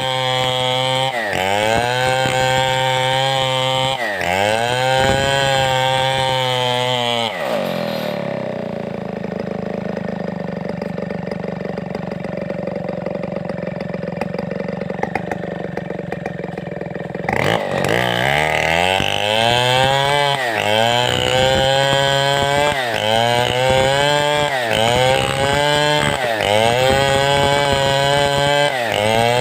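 Large 070-class two-stroke chainsaw cutting timber, its engine speed rising and dipping about every second and a half. For about ten seconds in the middle it runs lower and steadier, then the rise-and-dip pattern returns.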